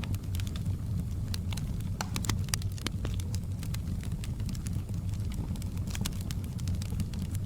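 Fire in a fireplace crackling: many irregular sharp pops and snaps over a steady low rumble.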